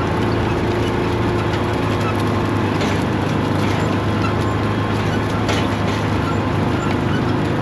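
A New Holland tractor's diesel engine running steadily while it pulls an anhydrous ammonia toolbar: an even, constant hum with a few faint clicks.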